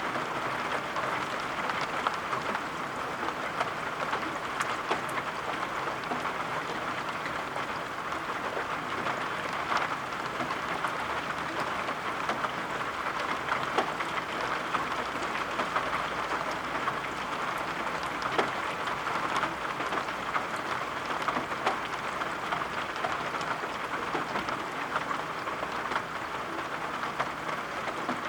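Steady rain falling, an even wash of sound with many small sharp ticks scattered through it.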